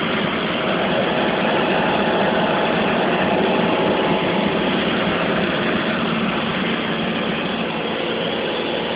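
Cessna 170 light aircraft's piston engine and propeller droning steadily in cruise, heard inside the cockpit as a loud, even roar.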